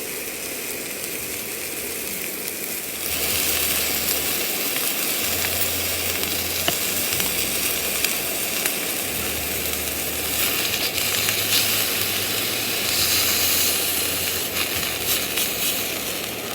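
Food sizzling on a hot grill. The sizzle swells louder about three seconds in and keeps going, with a few small clicks and pops.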